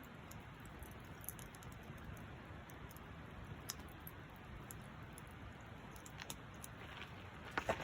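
Campfire crackling faintly: scattered small pops and clicks over a steady low hiss, with a few louder pops near the end.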